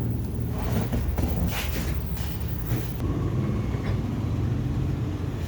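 Steady low machine rumble, with a few light metal clinks and scrapes about one and a half to three seconds in as turbocharger parts are handled.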